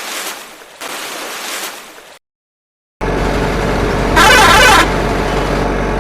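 Two short noisy hissing stretches, a sudden break into silence, then a steady engine-like rumble with a loud vehicle horn honk lasting about half a second in the middle.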